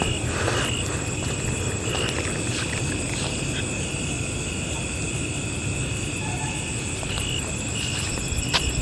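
Night insects such as crickets chirring steadily, with short high chirps repeating about every second, over a low rumble.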